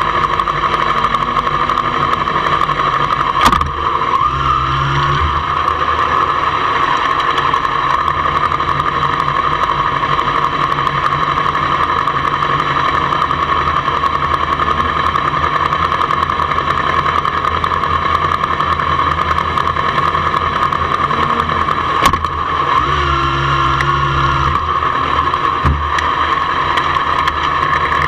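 Sport motorcycles idling in a queue, one engine running close by as a steady drone. Short revs rise about four seconds in and again about twenty-three seconds in, each just after a sharp click.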